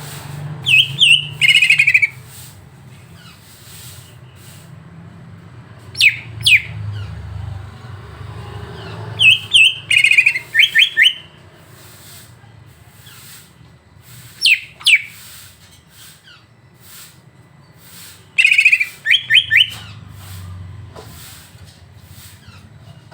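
Songbird calls played as a masteran track to provoke a captive cucak ijo: bursts of sharp chirps, short trills and quick downward-sweeping whistles, repeating every few seconds over a low steady hum.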